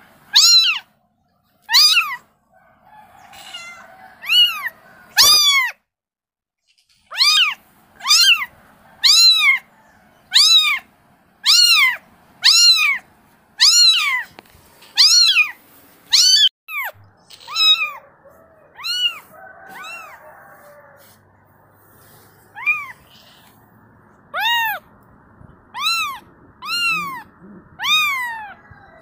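Kitten meowing over and over in short, high-pitched mews, about one a second, each rising and then falling in pitch: a kitten calling for its mother.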